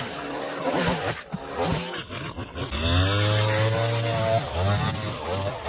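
Small gasoline engine of a yard tool such as a chainsaw, running and revving up and down unevenly, loudest through the middle.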